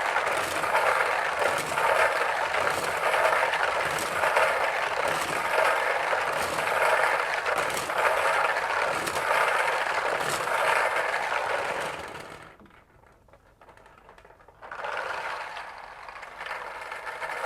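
Lottery draw drum being spun, its balls tumbling and rattling inside with regular knocks. The rattle stops about twelve seconds in and starts again about two seconds later.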